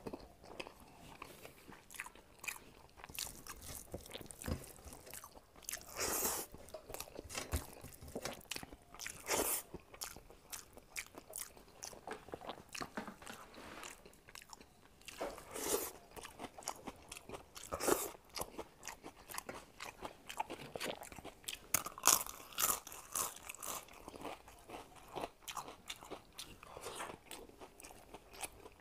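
Close-up chewing and mouth sounds of a person eating rice and fish by hand: wet smacks and clicks throughout, with louder bursts of chewing now and then.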